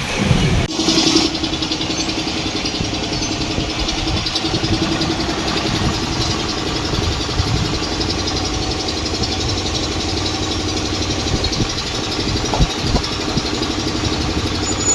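A steady mechanical hum, like a motor or engine idling, over a hiss of noise, setting in about a second in.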